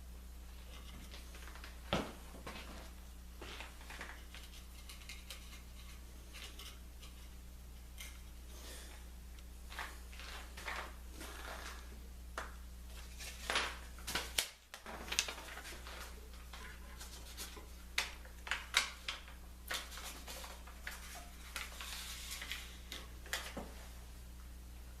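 Scattered light clicks and knocks of hands handling wood and tools, heaviest in the middle stretch, over a steady low hum.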